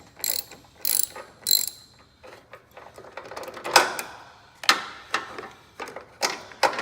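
Socket ratchet clicking in short back-strokes as it loosens a car battery's terminal nut: three quick bursts of pawl clicks about 0.6 s apart, then a few sharper clicks and knocks, the loudest about four seconds in.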